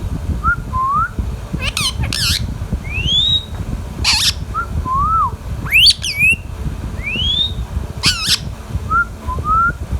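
Indian ringneck parakeet calling: short rising whistles mixed with several harsh, raspy squawks.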